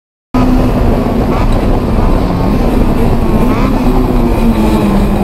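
Honda S2000 four-cylinder engine running hard on a race circuit, heard from inside the open-topped car, with wind and road noise. It starts abruptly a moment in.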